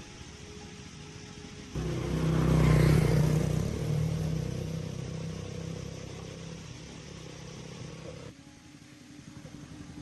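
Tractor diesel engine starting abruptly, rising briefly in revs and settling to a steady run, then cutting off suddenly about eight seconds in.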